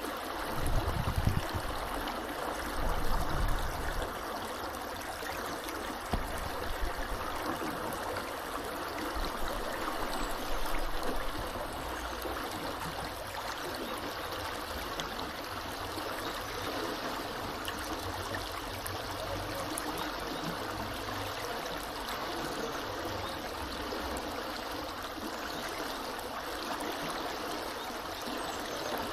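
A small river flowing steadily, a continuous rush of running water. A few brief low rumbles rise above it in the first ten seconds or so.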